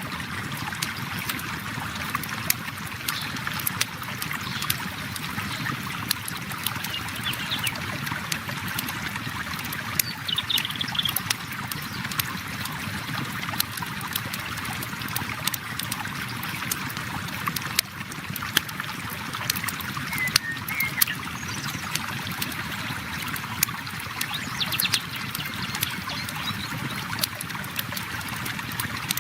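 River water flowing steadily, overlaid with a campfire's irregular crackles and pops. A few faint high trills come through now and then.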